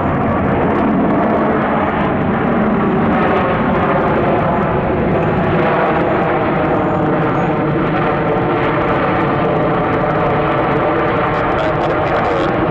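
Jet engines of an Airbus A330-300 airliner running loud and steady: a constant rumble with faint steady engine tones running through it.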